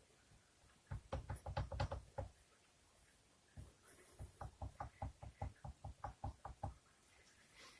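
Wahoo Kicker Snap trainer's roller knocking back and forth in two runs of quick clunks, about five a second, the second run longer. The roller shifts to and fro without turning the flywheel, a sign of play in the roller.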